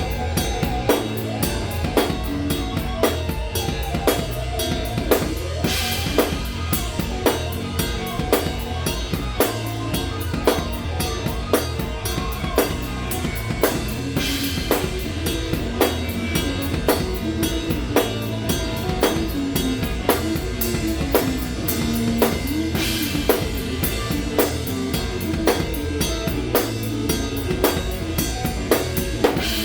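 Live rock band playing: a drum kit keeps a steady beat of bass drum and snare under bass and electric guitar, with cymbal crashes about six, fourteen and twenty-three seconds in.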